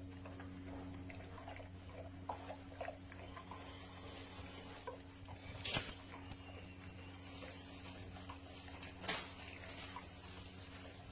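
A dog eating soft wet food from a bowl: small wet chewing and licking sounds, with two sharper knocks of the bowl about halfway and near the end, over a steady low hum.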